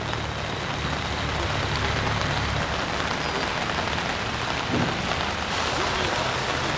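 Steady rain falling, with a car engine running low underneath for the first two or three seconds.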